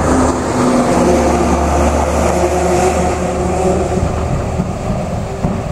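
A motor vehicle engine running steadily, its pitch easing down over the first two seconds or so.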